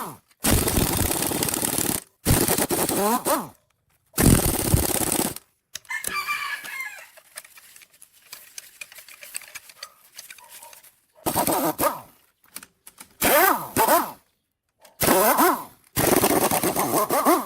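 Rooster crowing, several times, among loud stretches of harsh noise that start and stop abruptly with short silences between them.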